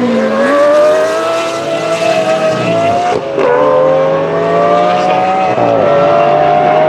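Sports car engine accelerating through the gears: the revs climb, drop sharply at an upshift about three seconds in and again near six seconds, then climb again.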